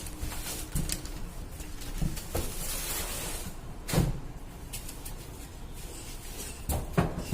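Handling noises: several knocks and bumps, the loudest about four seconds in, with a short rushing scrape around three seconds.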